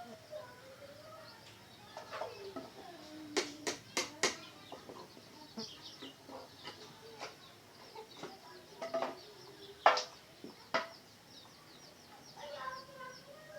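Red junglefowl clucking with short, bending calls throughout, broken by sharp knocks: three close together a few seconds in and two more near ten seconds.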